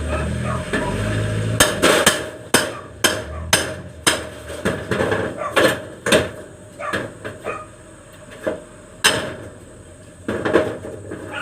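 Carpenter's hammer striking repeatedly in an uneven rhythm, about two blows a second at first, then more spaced out in the second half.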